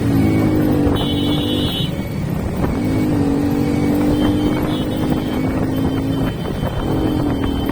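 Motorcycle engine running at road speed. Its pitch holds steady and dips and recovers a couple of times as the throttle changes, with wind buffeting the microphone.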